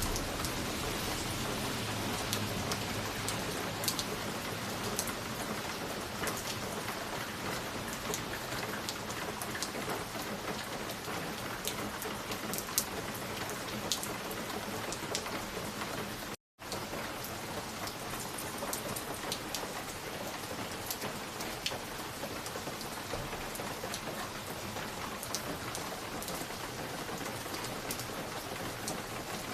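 Fireplace ambience: a steady rain-like hiss with scattered sharp crackles and pops. A brief dropout to silence comes a little past halfway.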